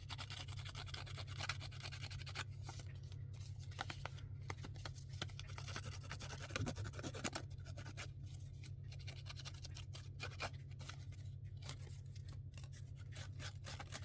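Paper being worked by hand at a craft table: irregular scratching, rubbing and light taps on paper, busiest about six to seven seconds in, over a low steady hum.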